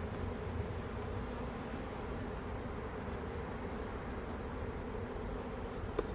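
Honey bees buzzing in a steady hum around an open hive, with one short click near the end.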